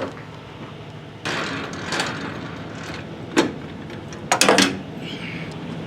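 Crowbar prying a trailer's landing-gear crank handle loose from under the frame: a scrape about a second in, a sharp clank around three and a half seconds, then a louder cluster of metal clanks about four and a half seconds in, over a low steady hum.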